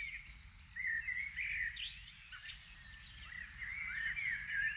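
Woodland birdsong: several small birds chirping and warbling in short, quick rising and falling phrases over a faint low background rumble.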